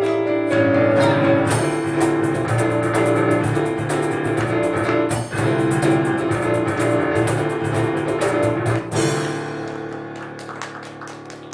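Piano and cajón playing the closing bars of an instrumental tune: fast struck chords and sharp drum hits, ending on a final chord about nine seconds in that rings and fades away.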